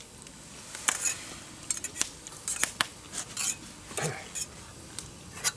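Eating utensils clinking and tapping against a hot pot and bowls: a run of irregular sharp clinks.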